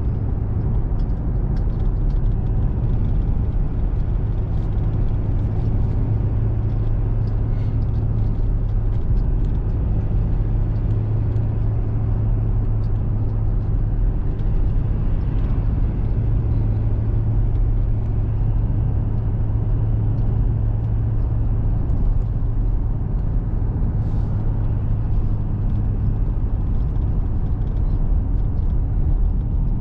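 Steady engine and road noise heard from inside a small truck's cab while driving: an unbroken low drone with tyre hiss over it.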